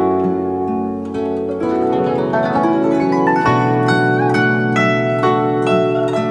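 Guzheng music: a flowing melody of plucked notes over low ringing notes, with a few notes bent in pitch partway through.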